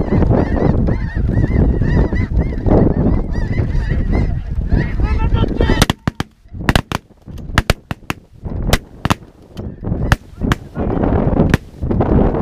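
A dense chorus of snow goose honking, many short repeated calls over heavy wind noise. About six seconds in it cuts off abruptly, and a rapid, irregular string of sharp cracks follows before the wind noise returns near the end.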